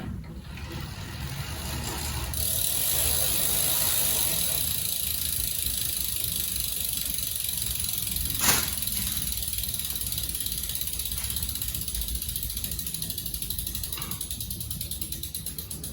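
Road bike's wheel and drivetrain running: a steady hiss, one sharp click about halfway, and fast, even ticking toward the end.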